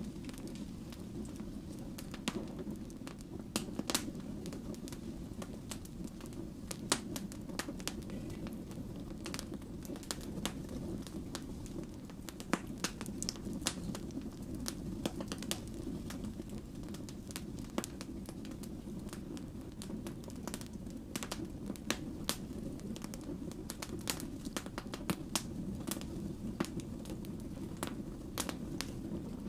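Wood fire burning with a steady low rumble of flame and frequent irregular sharp crackles and pops from the burning logs.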